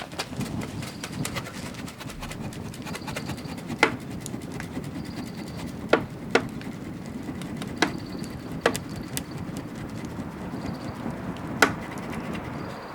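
Wood fire burning in the open: a steady low rush of flame with constant crackling, broken by about six sharp, louder pops from the burning wood.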